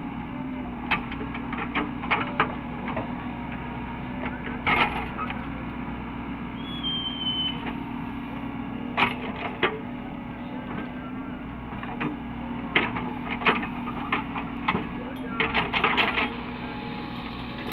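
Caterpillar 307E2 excavator's diesel engine running steadily, with repeated sharp metallic clanks and knocks in clusters from the machine working.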